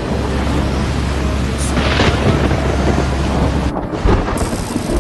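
Storm sound effects in a drama soundtrack: a continuous deep rumble of thunder with the hiss of heavy rain. The rumble breaks off a little before the end, followed by a couple of sharp knocks.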